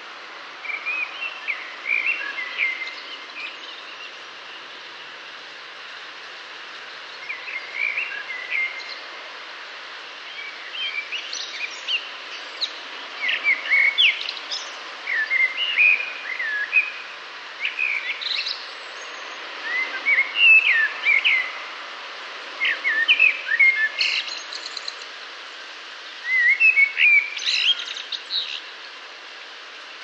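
Birdsong: short phrases of quick chirps and whistles, repeated every few seconds with brief pauses between, over a steady background hiss.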